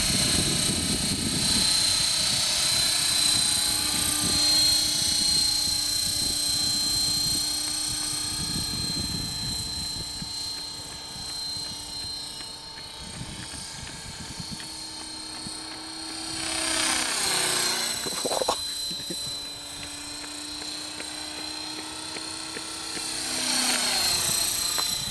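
Electric RC helicopter with a four-blade rotor head in flight, its motor whine and rotor sound running steadily. It grows louder twice as it comes close, about two-thirds of the way in and again near the end.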